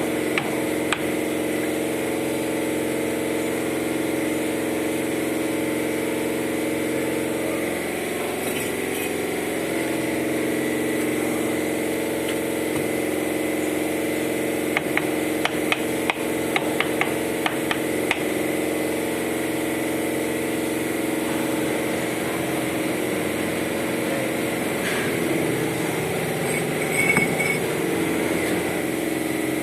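A steady machine hum, with scattered sharp taps and clinks from brickwork on an oven. The taps come in clusters about 8 seconds in and again between about 15 and 18 seconds in.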